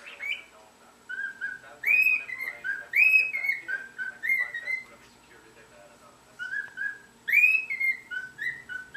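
Cockatiel whistling a tune: two phrases of clear whistled notes that step between a lower and a higher pitch, with a short pause between them.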